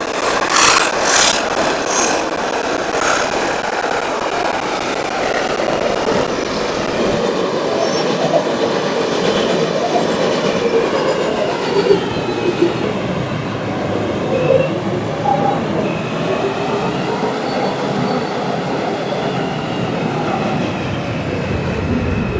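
R142 subway train running, heard from inside the car: a steady loud rumble, with the wheels clacking sharply over rail joints several times in the first few seconds and a faint high wheel squeal throughout.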